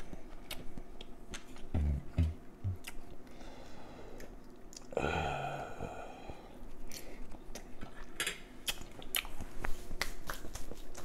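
Close-up chewing and mouth clicks of a man eating cornbread and collard greens, with one short hum about five seconds in.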